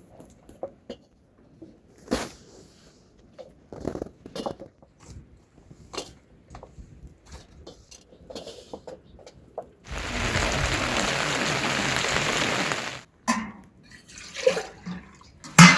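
Water pouring for about three seconds, starting and stopping abruptly, amid scattered light knocks and clicks of kitchen work, with a sharp clunk near the end.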